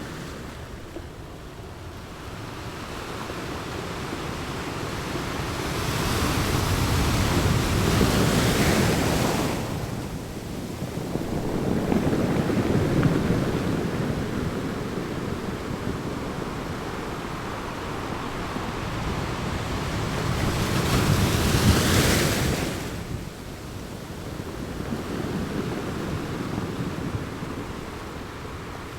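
North Sea waves breaking and washing up on a sandy beach: two big breakers about fifteen seconds apart, with smaller swells of surf between them.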